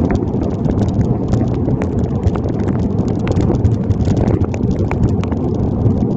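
Heavy rain striking a waterproof phone bag mounted on a moving bicycle: many sharp irregular ticks of drops over a steady low rumble of wind on the microphone.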